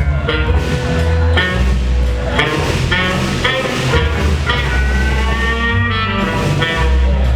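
A band playing music, with guitar and a strong bass line changing notes every second or so.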